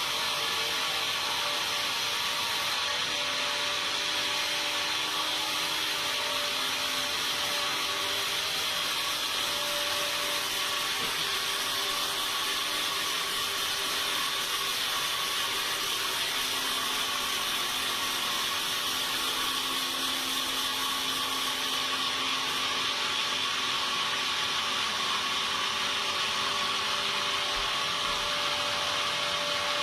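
Sawmill saw cutting lengthwise through a timber beam, running steadily without a break.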